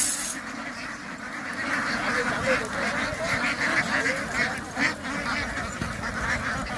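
A flock of ducks quacking and calling, many short overlapping calls forming a continuous chatter.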